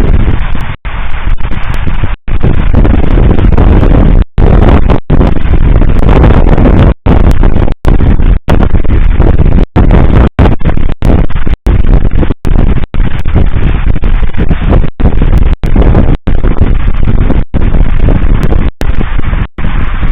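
Fireworks salute going off in rapid succession, so loud that it overloads the recording into a continuous distorted rumble, cut by many brief dropouts.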